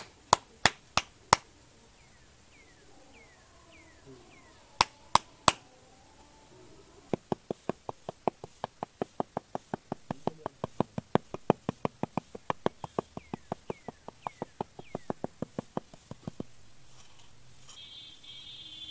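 Sharp taps from a small hand tool: a few scattered ones, then a steady run of about three a second for some nine seconds. Near the end a small trowel scrapes across sand.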